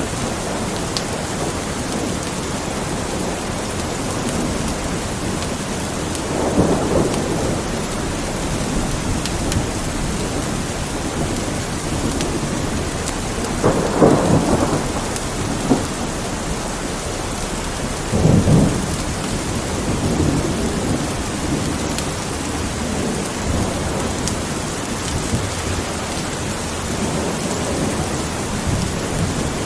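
Steady rain with low rolls of thunder about seven, fourteen and eighteen seconds in, and a fireplace crackling faintly with scattered small pops.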